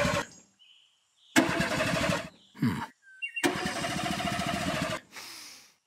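Car engine sound effect cranking over in several separate bursts with silent pauses between them, not catching: a failed attempt to start the car.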